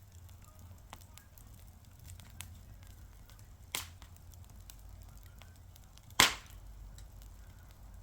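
Wood fire crackling, with small snaps throughout, a sharp pop about four seconds in and a louder pop a little after six seconds, over a low steady rumble of the burning.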